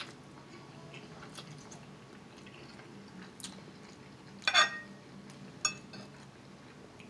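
Quiet chewing of a mouthful of lo mein noodles, then a metal fork clinks against the plate twice past the middle, the first clink the louder and ringing briefly.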